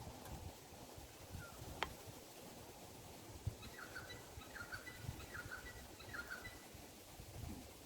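A bird calling faintly in a short run of four quick repeated notes midway through, over a low outdoor rumble. There is one sharp pop about two seconds in.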